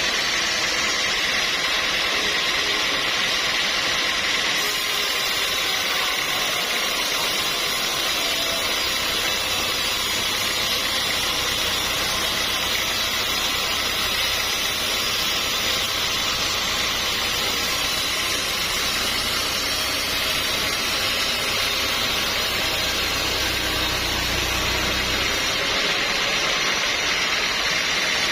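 Sawmill machinery running steadily: a constant high tone over a loud, even hiss. A deep low hum joins about eight seconds in and stops a few seconds before the end.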